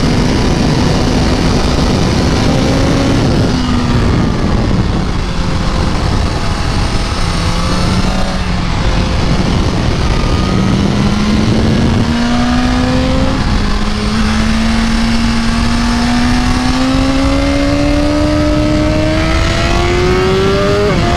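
BMW S1000RR 999 cc inline-four sportbike engine at full throttle on a race track, its note rising and falling through gear changes and then climbing slowly through one long pull before dropping at a shift near the end. Heavy wind rush on the onboard microphone runs under it.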